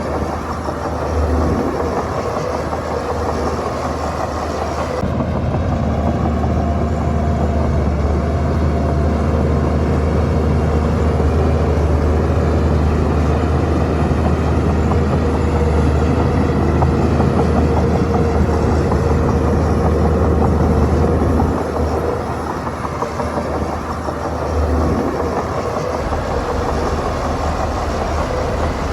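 Shantui bulldozer's diesel engine running while spreading fill. The deep engine note grows heavier about five seconds in and eases off again about twenty-one seconds in.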